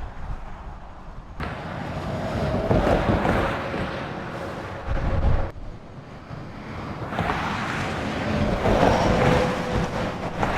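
Road traffic: two vehicles pass close by one after the other, each swelling up and fading away.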